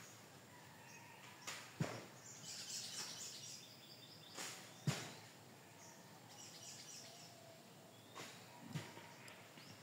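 Faint outdoor ambience with small birds chirping in the background, in two short clusters of high chirps. Three soft thumps, about three seconds apart, stand out as the loudest sounds.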